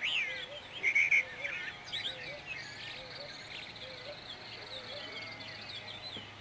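Songbirds chirping and singing, many short sweeping calls overlapping, loudest right at the start and about a second in.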